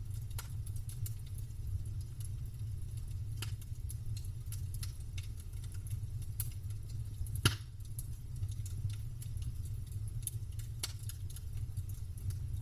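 Campfire crackling: a scatter of sharp pops and snaps from burning wood, with one loud pop about halfway through, over a low steady rumble.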